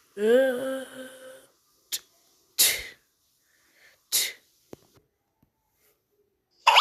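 A run of Hanna-Barbera cartoon sound effects: a short pitched, voice-like cry that rises and then holds, followed by two sharp hissing bursts and a few quick clicks.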